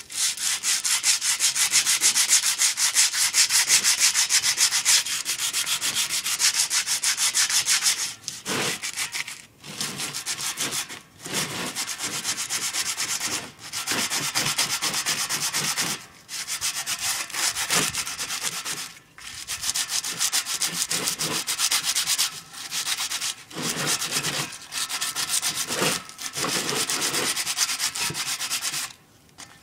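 Hand-sanding the rusty metal surface of a milk can with a small piece of sandpaper, rubbing the rust off toward bare metal: fast back-and-forth scrubbing strokes in runs of a few seconds, broken by short pauses.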